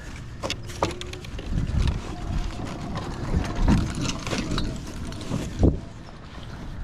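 Wind rumbling on the microphone, with scattered knocks and rattles. The loudest knock comes near the end.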